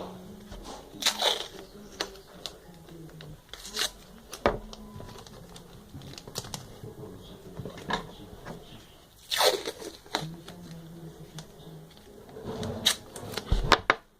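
Handling noises: scattered rustling, crinkling and light knocks, some of them sharp, at irregular intervals.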